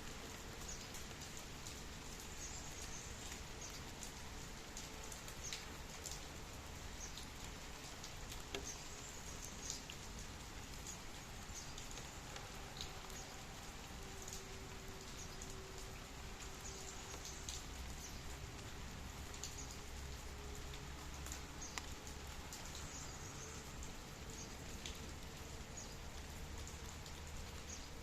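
Steady rain falling, with the individual ticks of nearby drops scattered through it.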